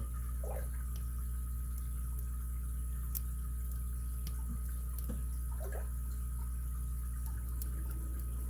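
Faint, scattered light ticks of a lock pick working the pins inside an ABUS 83CS/55 padlock under light tension. A steady electrical hum runs beneath.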